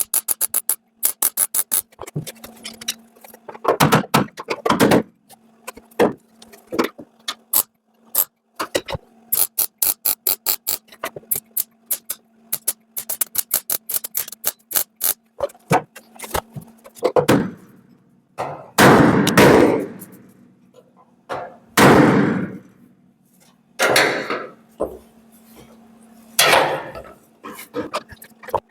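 MIG welder stitch-welding a steel bulkhead repair section on a Ford Anglia 105E: runs of short, sharp crackling arc bursts in quick succession, broken by several longer, louder bursts, over a steady low hum.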